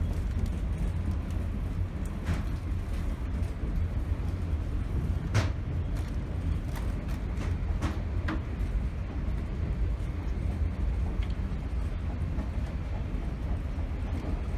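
Steady low rumble of a passenger train car in motion, with scattered sharp clicks and knocks.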